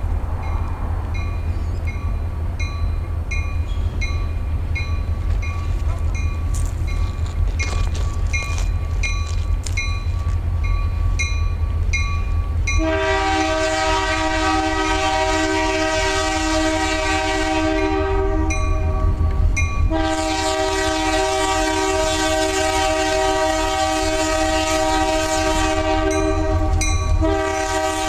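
Diesel freight train passing close, led by a GP40-2W locomotive, its engine making a steady low rumble. About halfway through, the locomotive's multi-chime horn blows long chord blasts. There is a break of a couple of seconds in the horn and a short one near the end.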